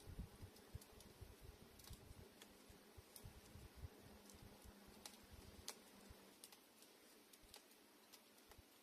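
Campfire crackling faintly, wood snapping in irregular sharp pops over a soft hiss.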